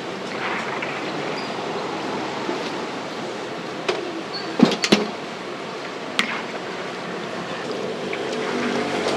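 Street-food stall cooking sounds: a steady hiss with a few sharp knocks and clinks of utensils about halfway through.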